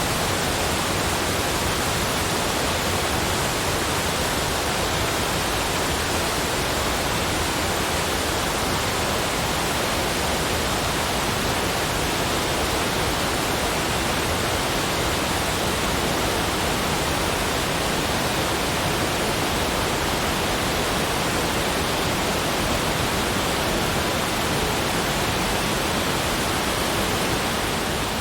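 Steady, even rushing of water, like a waterfall, starting to fade just before the end.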